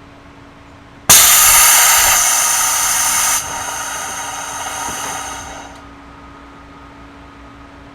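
Sudden loud hiss of compressed air released from a Series 211 train's pneumatic system, heard inside the carriage. It cuts in about a second in, stays strong for about two seconds, drops to a lower hiss and fades out over the next two seconds.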